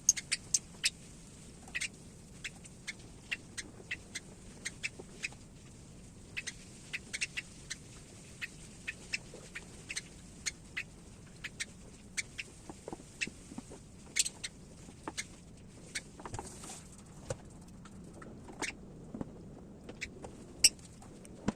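A hatching parrot chick making short, sharp, high sounds in an irregular series, about one or two a second, with a louder one near the end.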